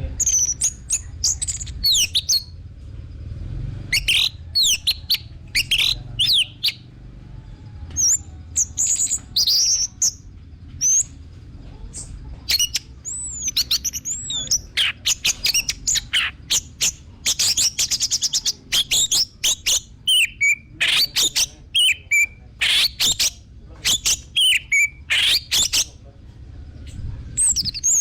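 Orange-headed thrush (anis merah) singing loudly: a varied run of whistled phrases, chirps and quick sweeping notes separated by short pauses, with a fast rattling trill a little past the middle.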